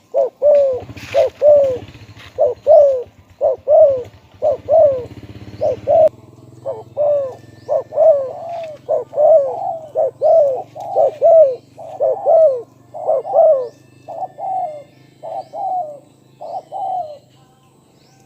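Spotted dove cooing: a long run of short coo notes, each bending downward, about two a second, stopping near the end. A low steady hum lies underneath.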